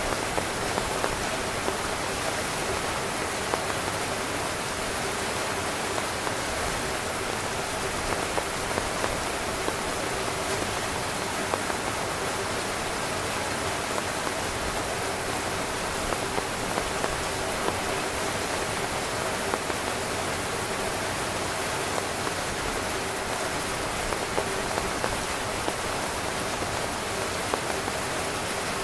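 Heavy rain falling steadily on a camping tent's fabric, an even hiss of rain with scattered louder drop hits.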